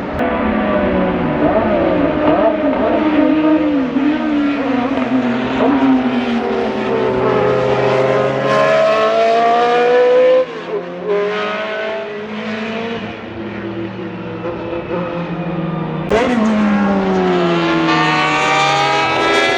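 Group C prototype race car engine accelerating hard on track, its pitch climbing in steps through the gears. There is a sudden lift off the throttle about halfway through. Near the end the sound changes abruptly to another hard-revving engine note that rises again.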